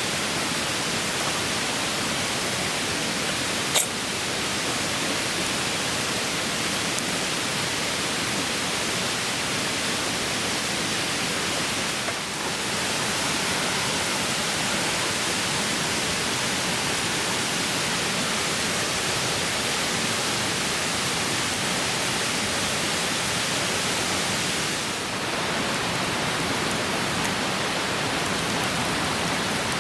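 Steady rushing of a clear stream's flowing water, an even hiss with no pauses. A single sharp click sounds about four seconds in.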